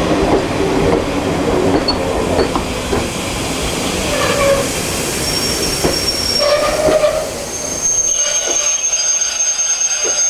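Railway coaches running over a level crossing, their wheels clattering over the rail joints with short wheel squeals. The rumble dies away about eight seconds in as the last coach clears, leaving a thin high steady tone.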